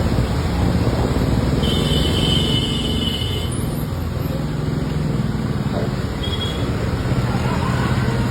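Steady street traffic noise with the rumble of passing vehicles, and a high, held tone for about a second and a half near two seconds in.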